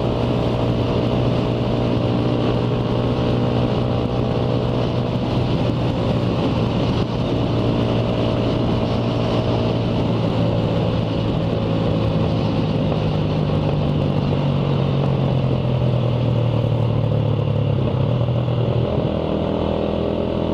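Motorcycle engine running steadily at riding speed, with wind rushing over the microphone. The engine note rises slowly and then drops near the end.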